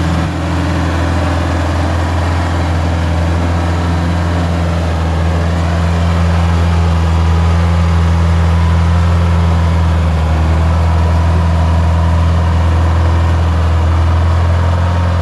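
GAZ-66 truck engine running steadily at low speed, its pitch barely changing, growing slightly louder about six seconds in.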